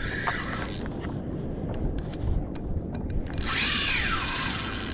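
Fishing reel working against a hooked fish, with a whirring tone about three and a half seconds in that falls in pitch, over steady wind and water noise.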